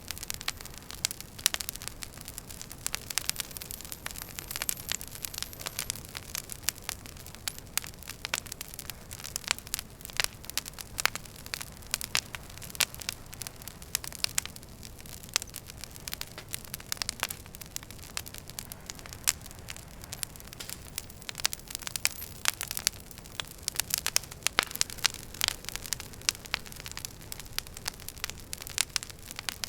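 Wood fire in a fireplace crackling: dense, irregular sharp pops and snaps over a steady low hiss.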